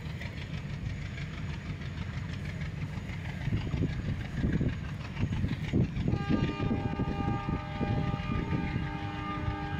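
Indian Railways passenger coaches rolling past, their wheels knocking over rail joints in a clickety-clack over a steady low rumble. From about six seconds in, a steady high ringing of several tones at once joins and holds.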